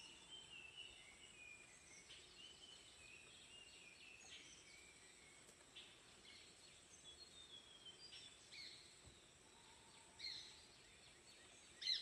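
Faint birdsong: a run of short, quick chirps and falling whistles, then louder calls about ten seconds in and again near the end.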